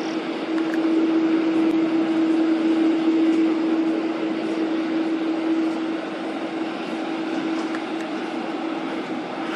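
Jet engines of an Airbus KC-30B tanker running: a steady rush with one held humming tone, swelling about a second in and easing off after about six seconds.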